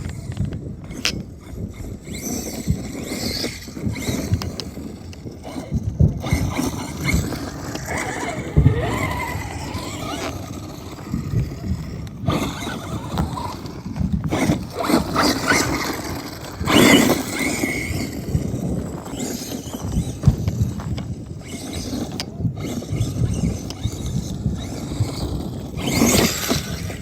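Electric RC monster truck (M2C Jackhammer with a Castle 1721 1260kv brushless motor) driving over rough ground. The motor whine rises and falls among irregular knocks and the rush of tyres, with louder surges twice.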